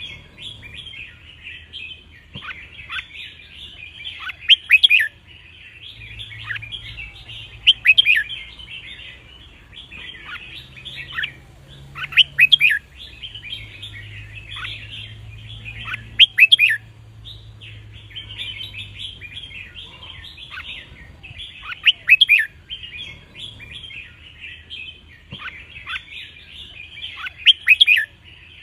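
Red-whiskered bulbuls singing, with loud, clear song phrases breaking out every few seconds over a steady background of chattering bird calls.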